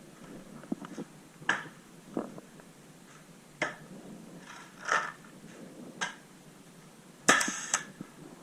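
Scattered sharp pops of paintball markers firing at a distance, irregularly spaced about a second apart, with a louder quick cluster of shots near the end.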